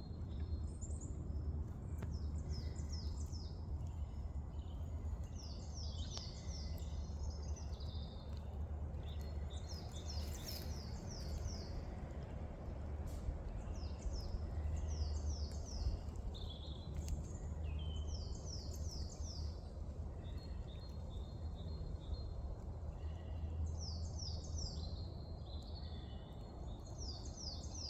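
Birds singing, with short phrases of quick, falling high notes repeated every few seconds, over a steady low rumble.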